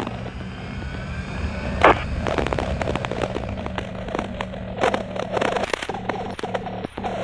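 Motorcycle engine running steadily while riding, with many irregular sharp clicks and crackles over it and a louder snap about two seconds in.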